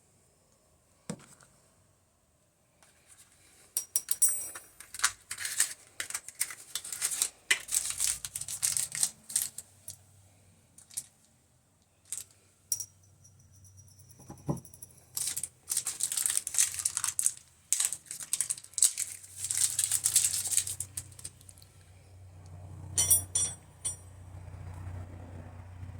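Irregular clinking, rattling and scraping of small hard parts being handled. A low hum builds up near the end.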